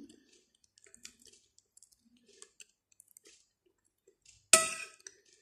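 Faint chewing with small wet mouth clicks, then, about four and a half seconds in, a sharp clink of a metal spoon against the plate.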